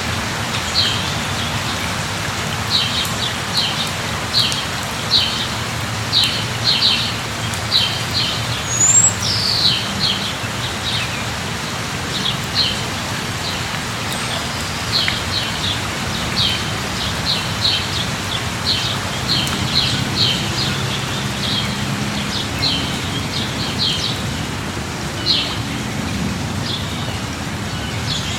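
Light rain falling steadily, with a small bird chirping over it in quick runs of short, high calls and a single sliding whistle about nine seconds in.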